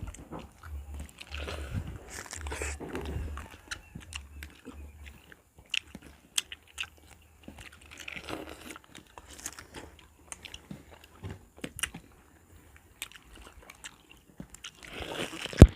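Close-up eating sounds of people biting into and chewing fresh sliced pineapple: wet, crunchy bites and mouth clicks at an irregular pace. A single sharp knock near the end is the loudest sound.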